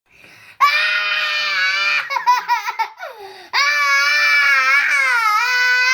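A child screaming as loud as possible in a screaming contest: one long high scream, a short wavering, laugh-like stretch, then a second long high scream held until the end.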